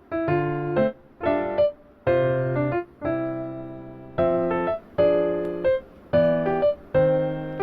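Background music: a keyboard tune, piano-like, played as short chords about once a second, with brief gaps between them.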